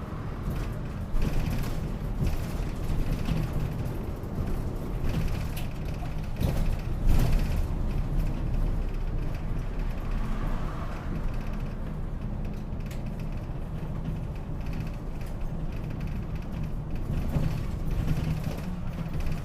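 Route bus under way, heard from inside the cabin: the engine and running gear rumble steadily. Body panels and fittings rattle and creak, with scattered clicks and knocks, the loudest about a second in and again around seven seconds.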